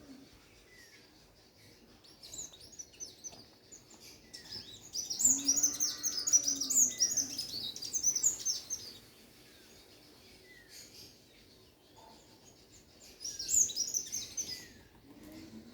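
Small birds chirping in bouts of rapid, high twittering, with the longest and loudest bout in the middle and a shorter one near the end; short falling notes between the bouts.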